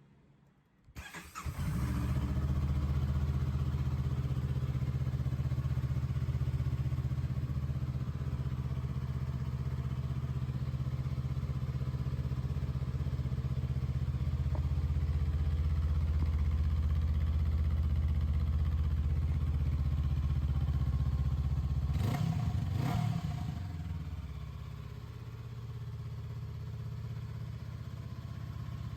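Honda CL500's 471 cc parallel-twin engine starting about a second in and running at a steady idle. A little over twenty seconds in, the throttle is blipped twice, after which it settles back to a somewhat quieter idle.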